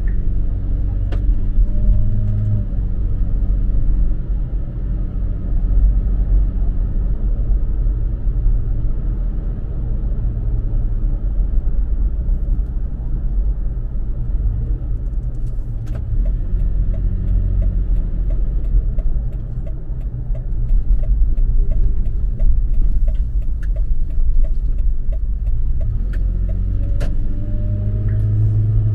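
Toyota FJ Cruiser's 4.0-litre V6 and road noise heard while driving: a steady low rumble, with the engine's pitch climbing as it accelerates just after the start and again near the end.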